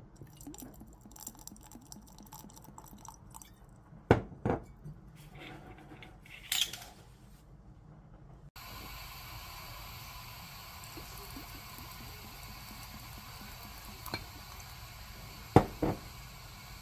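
Glassware and kitchen utensils clinking and knocking while food is prepared, with a few sharp knocks. About halfway through a steady hiss comes in under further knocks.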